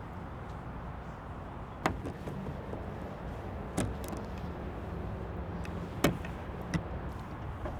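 Four sharp clunks, spaced irregularly, over a steady low rumble.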